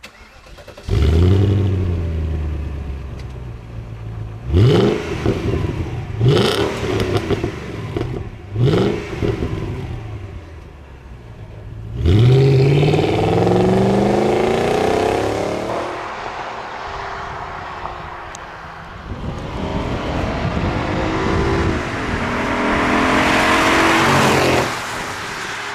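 Audi A8 D2 4.2 V8 exhaust with the middle muffler removed: the engine comes to life about a second in, is blipped three times in quick short revs, then revved up twice and held at high revs for a few seconds each time.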